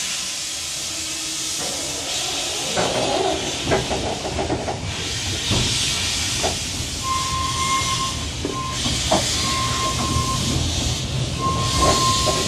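Narrow-gauge steam locomotive standing ready to depart, hissing steam loudly in repeated swells, with scattered metallic knocks. About halfway through, a thin steady tone starts and comes and goes.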